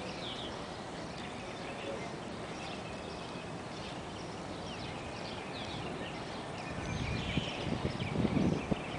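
Birds chirping: short, high, down-slurred calls repeated again and again over a steady outdoor background. In the last couple of seconds, low rumbling thumps rise above it.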